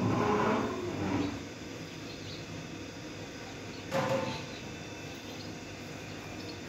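Parrot calls: a harsh, noisy call lasting about a second at the start, and a shorter, more tuneful call about four seconds in, over a steady background hiss.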